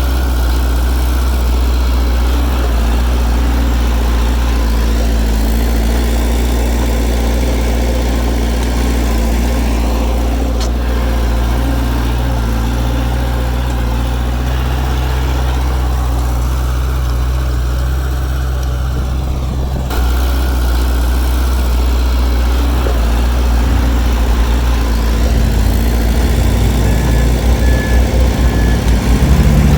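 Heavy diesel engine of earthmoving machinery running steadily with a deep, even hum. It changes abruptly about two-thirds of the way through and grows louder and throbbing near the end.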